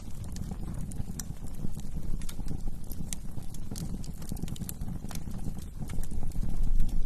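Wood fire burning in a fireplace: irregular sharp crackles and pops from the burning wood over a steady low rumble of the flames.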